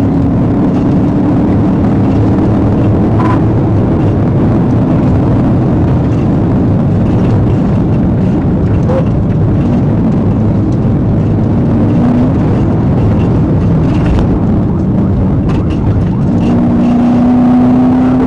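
A police patrol car driving fast, with a loud, steady rush of road and wind noise and the engine note climbing slowly at the start and again near the end.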